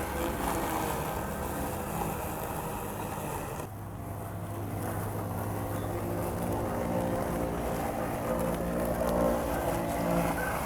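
Robot lawn mower running, its electric motors humming with pitch shifting as it drives and cuts grass. The sound changes abruptly a little under 4 seconds in.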